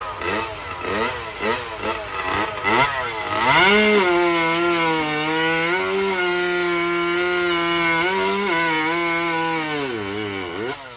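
Vintage two-stroke chainsaw engine blipped up and down in quick revs, then held at high speed for about six seconds with a couple of brief dips, and dropping off near the end.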